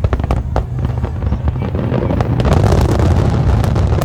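Aerial fireworks going off in quick succession: many sharp cracks over a continuous low booming rumble.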